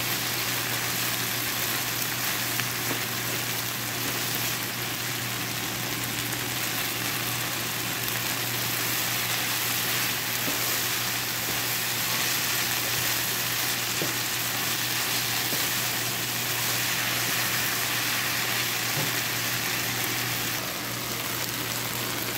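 Okra stir-fry with onion and tomato sizzling steadily in a nonstick frying pan, with a wooden spatula stirring it near the end.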